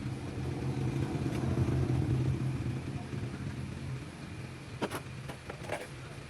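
A low motor hum that swells over the first couple of seconds and fades away, followed by a few sharp clicks near the end.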